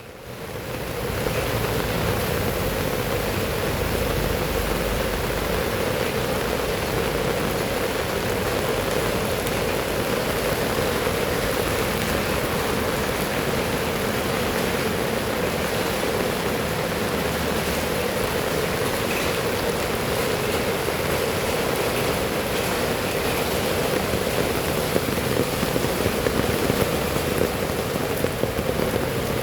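Heavy rain falling steadily, a dense even hiss that swells in over the first second.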